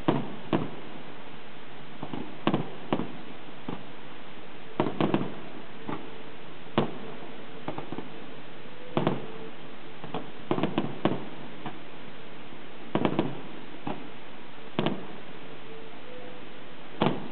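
Fireworks shells bursting overhead: a string of sharp bangs at irregular intervals, some in quick clusters of three or four, over a steady hiss.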